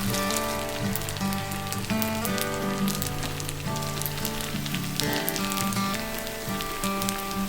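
Food sizzling and crackling in a pan over a wood fire, under background music.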